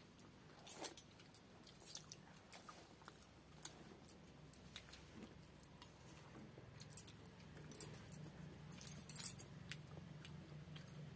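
Eating sounds: soft, scattered clicks and smacks of chewing and lips while rice and fish curry are eaten by hand off a banana leaf. A faint low hum comes up about halfway through.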